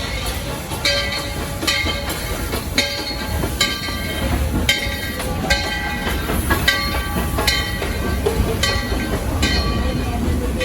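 Steady low rumble with a sharp, ringing metallic clack about once a second, like a rail car rolling over track joints.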